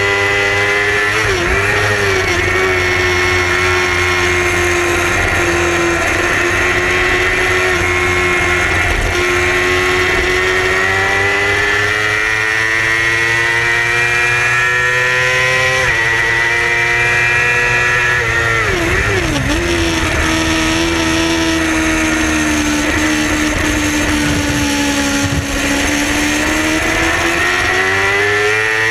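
Yamaha R6 600 cc inline-four racing motorcycle engine pulling hard at high revs. Its pitch climbs steadily and then drops sharply at a gear change about sixteen seconds in. The pitch wavers and dips briefly twice, near the start and about nineteen seconds in.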